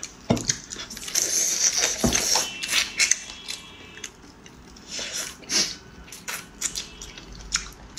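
Close-up eating sounds of braised chicken feet being bitten and chewed: short wet clicks and crunches, with a denser crunchy stretch about a second in.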